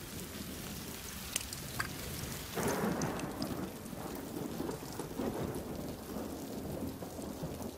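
Heavy rain falling steadily and pattering on a pool of water, with scattered sharp drips. A low rumble of thunder swells in about two and a half seconds in and rolls on.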